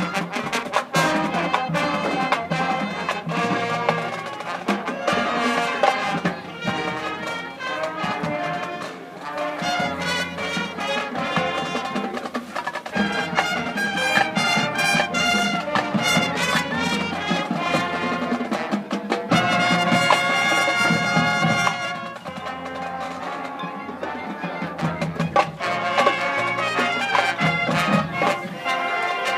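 Marching band playing, brass section over drums, with a held brass chord about two-thirds of the way through.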